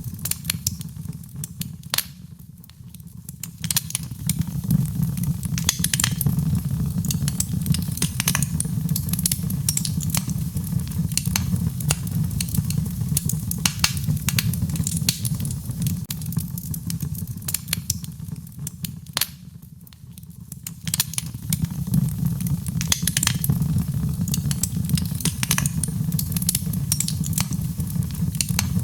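Wood fire in a fireplace crackling, with frequent sharp pops over a steady low rumble of the flames. The rumble and crackle ease off briefly twice, a few seconds in and about two-thirds of the way through.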